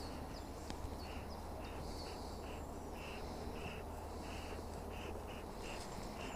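A bird calling over and over in short, even notes, about two or three a second, starting about a second in.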